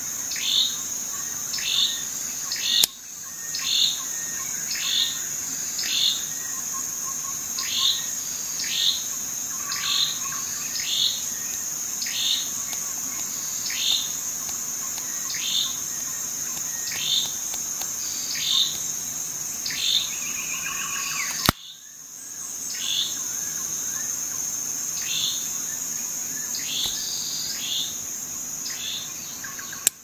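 A bird chirping over and over, short calls falling in pitch about once a second, over a steady high-pitched drone. Twice the sound cuts off with a sharp click, about three seconds in and about two-thirds of the way through.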